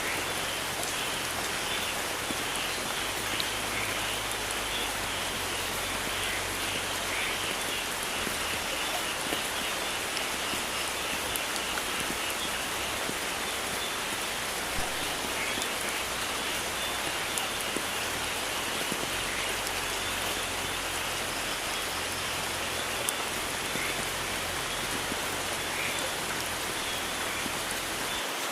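Steady rain falling: an even hiss with small drops ticking through it.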